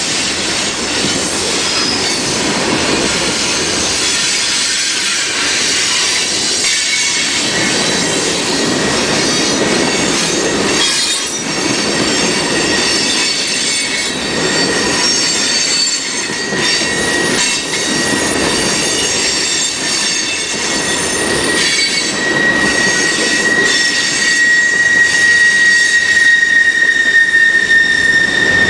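Train cars rolling past with steel wheels squealing against the rails: several high squeal tones at once, and a strong steady squeal that comes in about two-thirds of the way through. Under it, a rolling rumble swells about every couple of seconds as car after car goes by.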